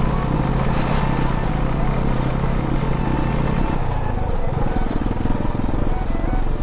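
Royal Enfield motorcycle engine running as the bike is ridden slowly, with wind noise over it. The steady engine note gives way to an uneven, choppier one about four seconds in.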